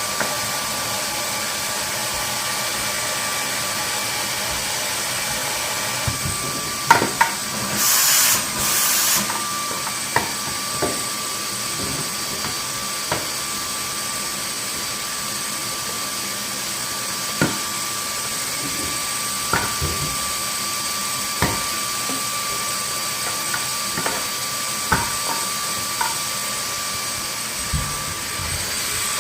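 Vacuum cleaner running steadily with a high whine, with scattered knocks and clacks as it is moved about. Just after about 8 seconds in it gives two short, louder rushes of hiss.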